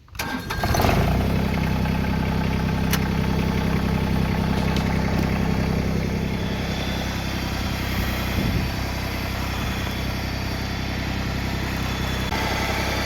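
Tractor engine starting about half a second in, then running steadily at idle.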